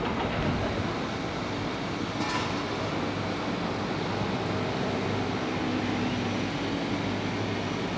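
A Ferrari engine running at a steady idle, with one brief sharp click about two seconds in.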